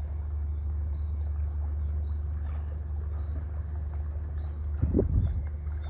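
Outdoor ambience: a steady high insect drone, a bird chirping in short repeated calls, and a steady low rumble underneath, with a few louder bumps about five seconds in.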